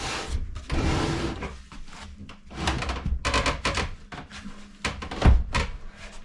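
Wooden cabinet being shoved into place under a countertop: a scraping slide for about a second and a half, then a series of knocks with one loud thump about five seconds in.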